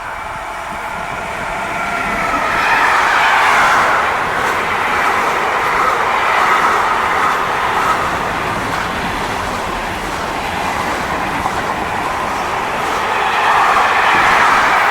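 A train passing through a station: a steady rush of wheels on rail that builds about two seconds in and stays loud.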